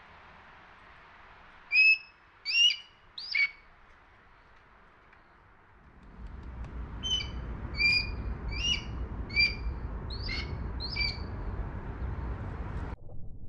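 Short, sharp, high-pitched hawk calls, which the recordist is pretty sure come from a juvenile red-tailed hawk: three about a second apart, then after a pause a faster run of seven. About halfway through, a low rumble comes in under the calls and cuts off suddenly near the end.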